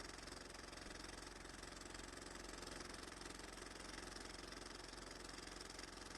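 Engine of a 1911 Wagner motorcycle idling faintly and steadily, with a quick, even firing rhythm.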